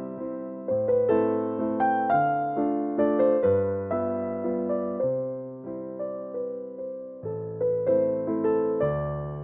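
Slow, gentle piano music: single struck notes ringing out and fading, over soft low chords.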